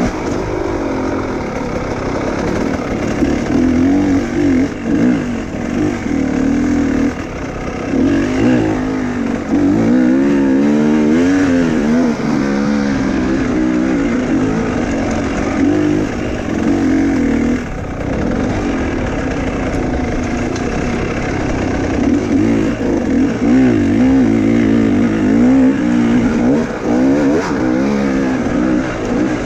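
Enduro motorcycle engine revving up and down again and again, its pitch rising and falling as the throttle is worked.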